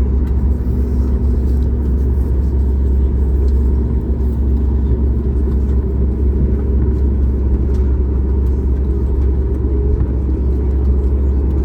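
Steady low rumble of jet engine and airflow noise inside the cabin of a Boeing 737 MAX 8, its CFM LEAP-1B engines running under power.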